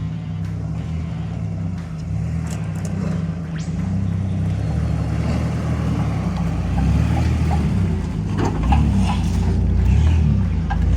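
Nissan Patrol's petrol straight-six engine running at low revs as the 4WD crawls up a rocky climb, getting louder under load, with a few knocks and clatter from rocks about eight seconds in.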